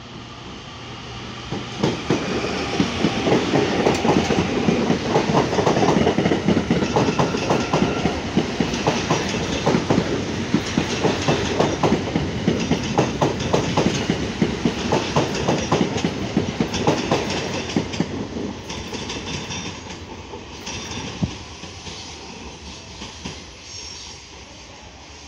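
Electric commuter train passing close at speed, its wheels clattering in rapid clicks over the rail joints and switches. It is loud for most of the pass, then fades as the train moves off.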